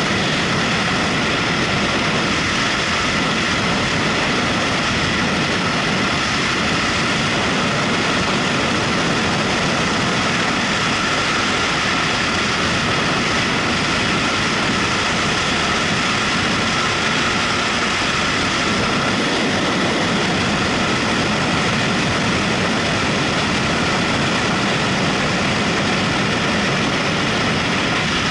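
Motorcycle running at a steady speed, the engine's sound mixed with constant wind and road noise on the microphone.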